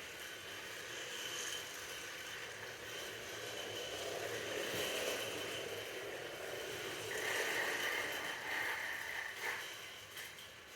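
Toy train running on its track: a small motor whirring, with rattling and scraping, and a brighter whine partway through.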